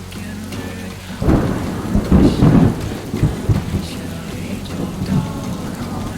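Rumbling rush of wind and water noise around a sailing yacht at sea, surging loudest from about one to three and a half seconds in, then easing to a steadier rush.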